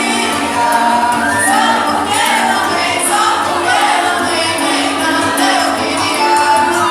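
A group of voices singing a folk song together, with musical accompaniment.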